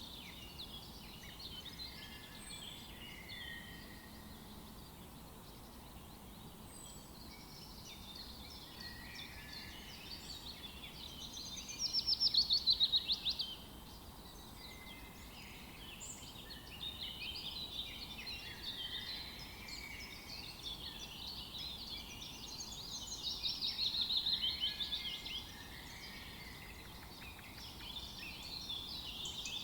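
A chorus of wild birds calling and singing over one another, with two louder rapid trills, one near the middle and one about three-quarters of the way through.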